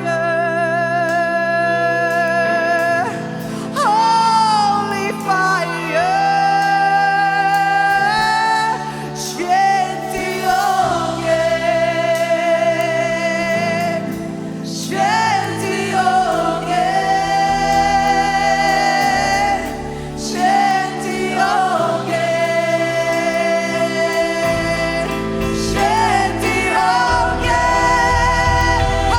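Live worship band music: a singer holds long, wavering high notes over sustained chords. A deep bass swells in near the end.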